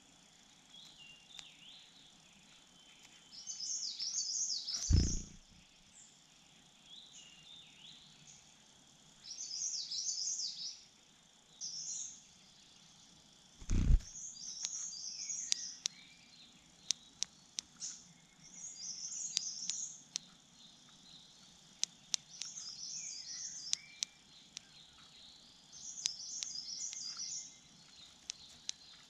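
A songbird singing short, high warbling phrases over and over, one every two to three seconds. Two dull thumps about five and fourteen seconds in, and a run of sharp clicks in the second half.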